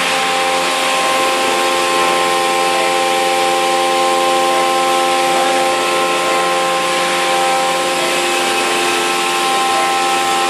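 CNC mill spindle at 8,000 rpm driving a 3-flute end mill through 6082 aluminium in a trochoidal toolpath, 20 mm deep. It makes a steady cutting whine of several held tones over a hiss.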